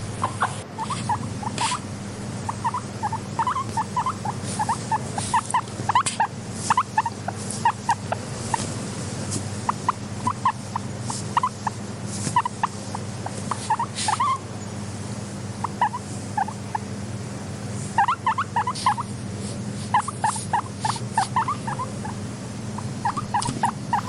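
Guinea pig making short squeaks in quick runs of several at a time, with pauses between the runs. A steady low hum and a few sharp clicks lie underneath.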